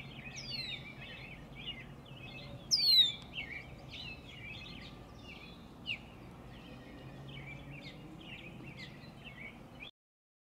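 Several birds singing and chirping, with a few clear downward-sliding whistles, the loudest about three seconds in. The sound cuts off suddenly near the end.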